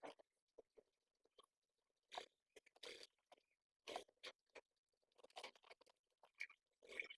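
Faint, irregular clicking, scratching and rustling from pigeons and their squabs moving at the nest.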